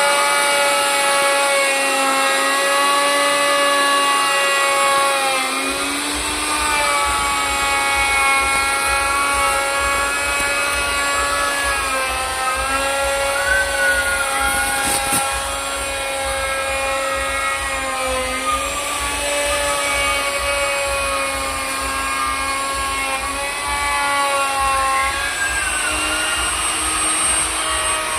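Handheld electric woodworking power tool running at high speed with a steady whine, its pitch dipping briefly every few seconds as it bites into the wood. A low rapid flutter joins about five seconds in.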